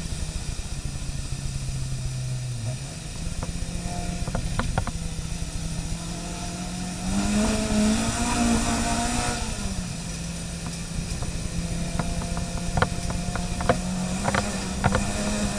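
Car engine running at a steady pitch. The revs rise briefly about seven seconds in and drop back about two seconds later. A few short sharp clicks come near the end.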